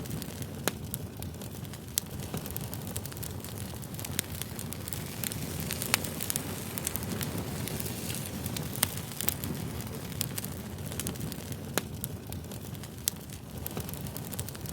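Wood fire crackling: a steady low rumble of burning with scattered sharp pops and snaps, a few of them louder.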